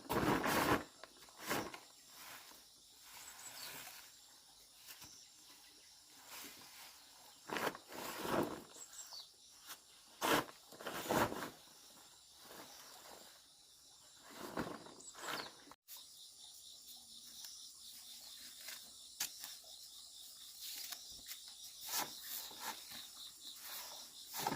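Insects chirring steadily in a high-pitched haze, broken by a handful of short, louder rustling sounds, the loudest near the start and around the middle.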